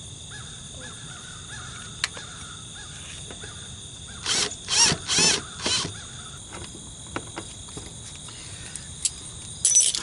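A bird gives four harsh cawing calls in quick succession about halfway through. Before that, a cordless drill driving a screw whines faintly and steadily for a couple of seconds.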